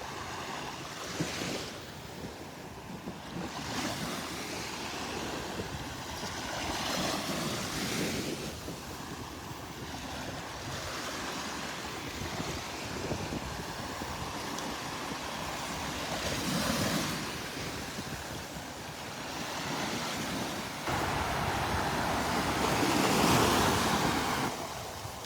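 Gulf surf washing onto a sandy beach, the noise swelling and fading every few seconds as waves break, with wind buffeting the microphone, loudest over the last few seconds.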